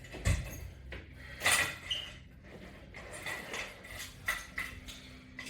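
Irregular light clinks and knocks of the latch bar's strap hardware, mixed with rustling, during repeated sit-ups.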